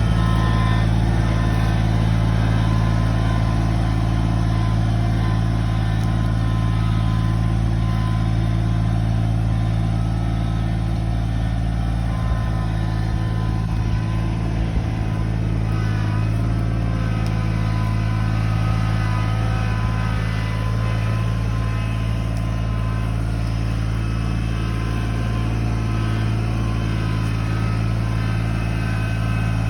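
Tractor engine running at a steady speed, its low note unchanging.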